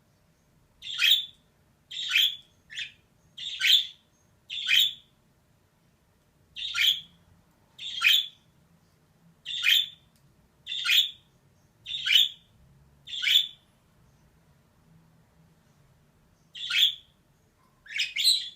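Female budgerigar giving short, harsh chirping calls one at a time, about a second apart, with a pause of a few seconds before the last few.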